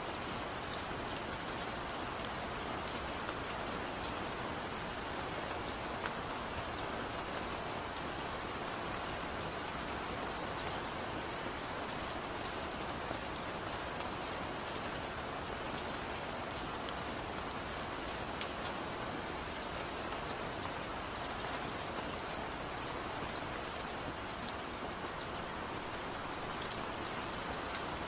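Steady rainfall, with a constant wash of rain and scattered sharp drop ticks.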